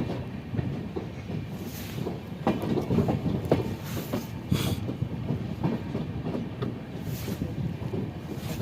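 Golden Temple Mail express train running into the station, wheels clattering over the rail joints with a steady rumble. Short hissing bursts come three or four times.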